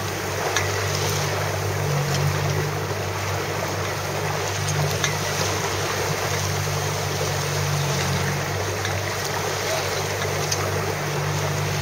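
Boat motor running steadily with a low hum, under wind and water noise on the water.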